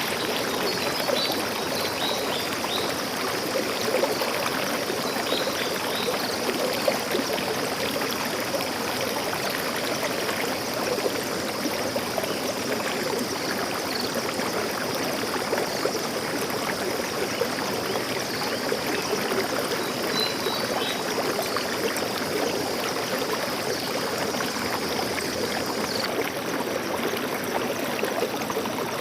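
Stream water flowing steadily, a constant rushing and trickling of water.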